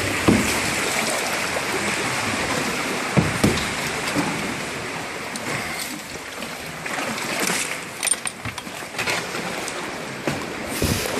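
Seawater sloshing and washing around a kayak, with several sudden splashes a few seconds apart.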